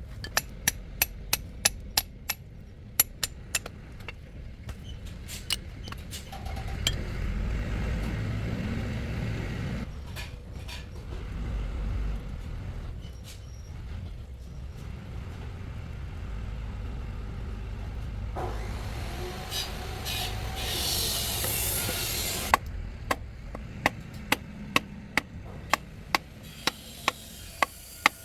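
Hand-tool work: a run of light, sharp taps, about two or three a second, then a stretch of low rumbling and a scraping, rubbing sound, with the taps starting again about two-thirds of the way in.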